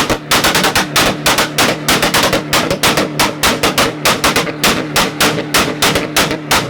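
Car engine held on a two-step launch-control rev limiter, firing a rapid, even string of loud exhaust pops, about five a second, over a steady engine drone. The popping stops near the end as the revs fall.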